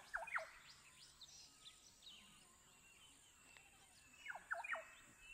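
Wild birds calling: short whistled notes that slide sharply downward, a quick group of three near the start and another group near the end, with scattered fainter chirps between, over a steady faint high-pitched whine.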